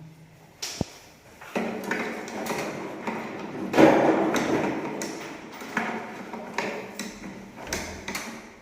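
Irregular knocks, clicks and scraping of hand work on parts, with the loudest clatter about four seconds in.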